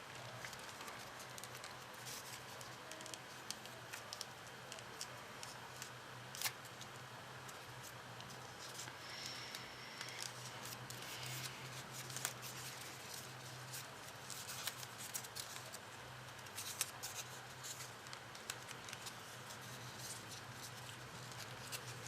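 Paper being handled and worked by hand, with many small irregular crinkles and clicks over a steady low hum.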